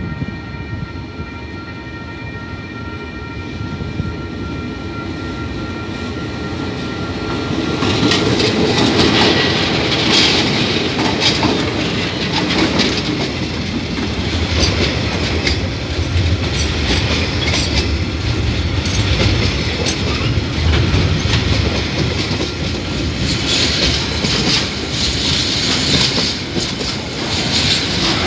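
Diesel-hauled freight train approaching with a steady whine, growing louder, then passing close by from about eight seconds in. After the locomotives, a long line of container wagons rolls past with the clickety-clack of wheels over the rail joints.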